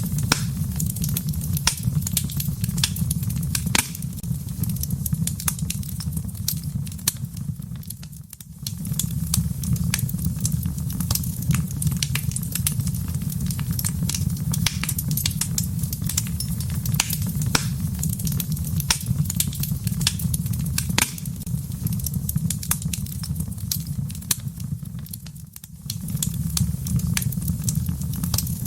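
Wood fire burning in a fireplace: dense, sharp crackles and pops over a steady low rumble of the flames. The sound dips briefly twice.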